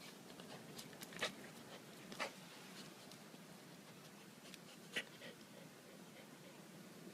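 Light scratching and tapping on the ground from a Bull Terrier playing with a crab, with three sharper clicks standing out: about a second in, two seconds in and five seconds in.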